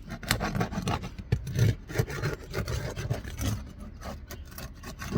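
3-tab asphalt shingles being worked loose by hand: gritty rubbing and scraping with irregular crackles as the shingle surfaces drag against each other and the row is broken free.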